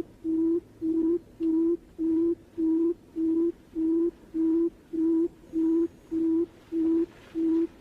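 Barred buttonquail's booming call: a long, even series of short, low hoots on one pitch, about two a second, the kind of call played to lure the bird in.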